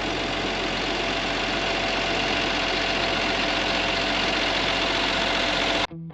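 An engine running steadily at idle, cut off abruptly near the end as music starts.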